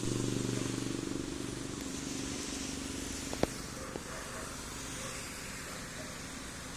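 Heavy rain falling, a steady hiss. A low hum fades out over the first two seconds, and a single sharp click comes about halfway through.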